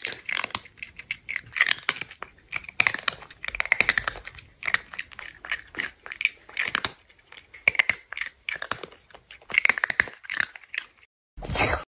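Crunchy chewing and biting of crisp food, bite after bite in quick crackly clusters about once a second.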